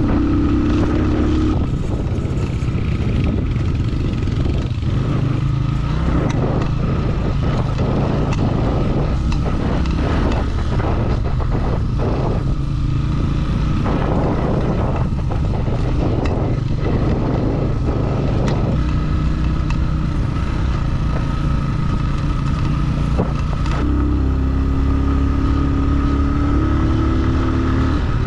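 Motorcycle engine running steadily while riding a dirt road, with rattles and wind noise on the microphone. The engine pitch climbs in steps near the start and again in the last few seconds.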